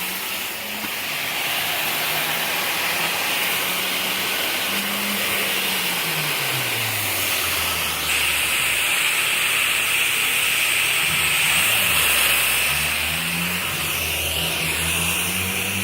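Steady hiss of water spraying onto an outdoor air-conditioner condenser unit to clean its coil, cutting off near the end.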